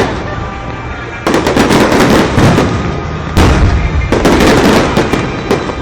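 Aerial fireworks shells bursting close overhead: loud booms with crackle and rumbling tails. A cluster of bursts comes about a second in, another about three and a half seconds in, and one more near the end.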